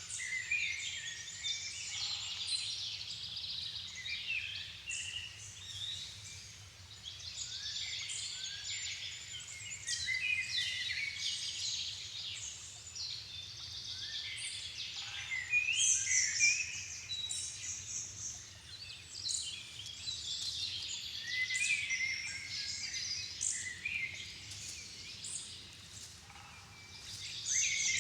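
Dusk chorus of many songbirds singing at once, their high songs and chirps overlapping without a break.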